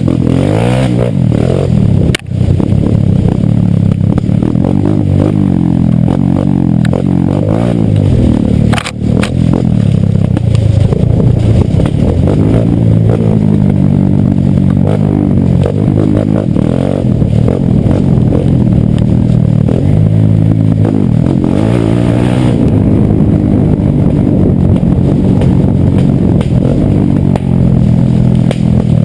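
Trail motorcycle engine running under way, its pitch rising and falling as the throttle opens and closes, with brief breaks about two and nine seconds in.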